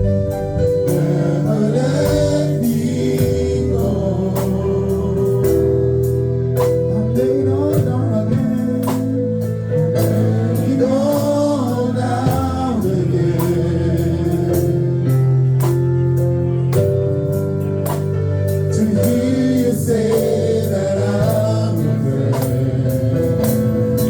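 Gospel worship music: a singer over sustained keyboard or organ chords with a steady beat.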